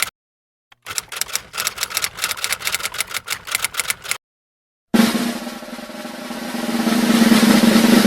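Edited percussion track: fast, even ticking strokes at about eight a second, cut off twice by sudden dead silence. Then a snare drum roll starts abruptly and swells louder.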